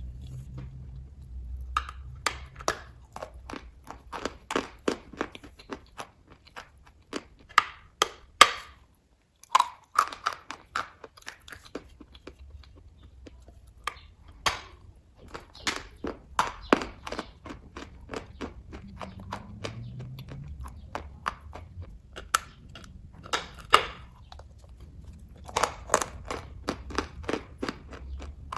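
Close-miked chewing of kaju katli cashew fudge: irregular clusters of sharp, wet mouth clicks and smacks, with a brief pause a little after nine seconds.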